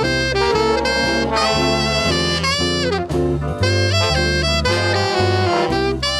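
Swing band music: saxophones and brass playing over a moving bass line, with a short break about three seconds in.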